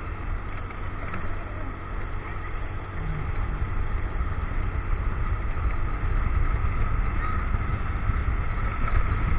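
Motorcycle running on the road, heard through an action camera: a steady low rumble of engine and ride noise that grows a little louder over the second half.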